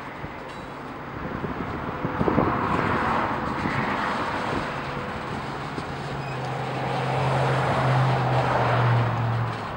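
A vehicle engine running, with a low steady hum that builds and grows louder over several seconds, then cuts off abruptly near the end; a knock sounds about two seconds in.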